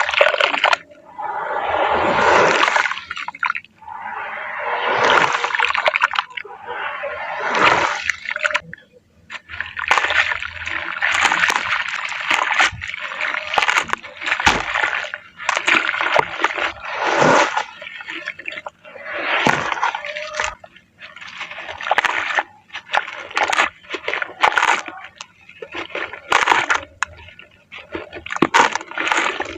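Wet, grainy shapes crumbling and squishing in water, with sloshing. It comes as a rapid run of separate crunchy, splashy bursts, roughly one every second or two.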